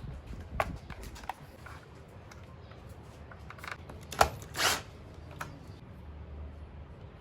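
Handling sounds: scattered light clicks and knocks, with one sharp knock a little past the middle followed by a brief scraping swish.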